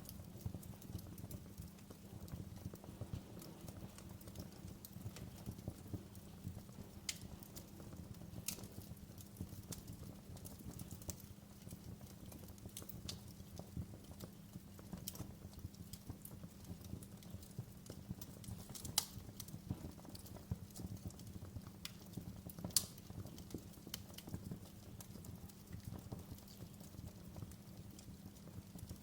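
Wood fire crackling: irregular sharp pops and snaps over a low, steady rumble of the burning fire, with two louder snaps a few seconds apart past the middle.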